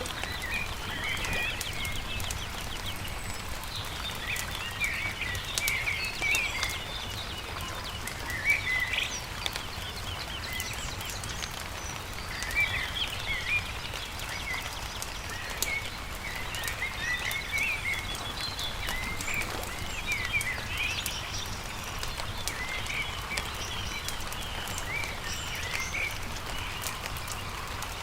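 Small songbirds chirping and singing in quick, overlapping phrases over the scattered snaps and pops of a crackling wood campfire, with a low steady rumble underneath.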